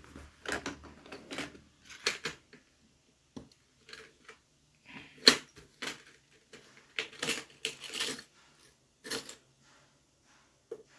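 Irregular clicks and light plastic clatter as a DT830D digital multimeter's opened case and small parts are handled, with one sharper knock about five seconds in.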